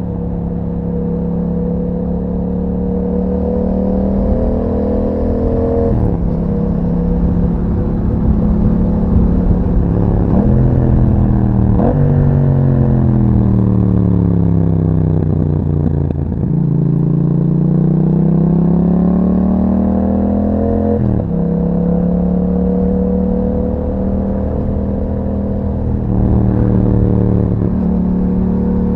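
2021 Yamaha MT-07 parallel-twin engine through an Akrapovič exhaust, ridden on the road. It pulls up through the revs with sudden pitch drops at gear changes about 6, 10 and 12 seconds in. The revs then fall steadily for several seconds and climb again, with another shift about 21 seconds in.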